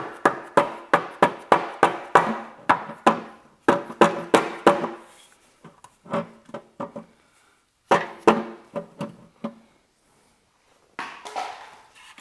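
Hammer tapping on a Nissan Figaro engine's oil pan to break it free of its gasket seal, the pan ringing after each blow. A quick run of about three taps a second comes first, then short runs of taps with gaps between them.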